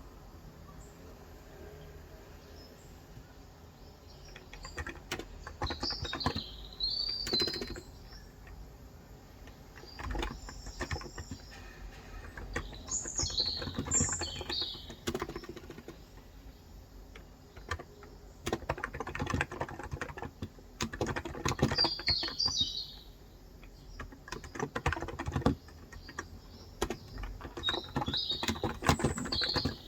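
Typing in bursts on a COX Endeavour tenkeyless keyboard with 35 g electrostatic capacitive (Topre-style) switches, the keystrokes coming in runs with short pauses between them. Birds chirp now and then over the typing.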